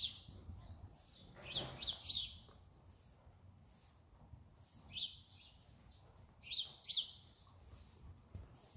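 Small birds chirping: short, high chirps, often in quick pairs, recurring every second or few.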